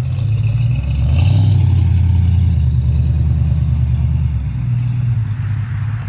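A car engine rumbling close by, its low note dropping about a second in and rising again near the end.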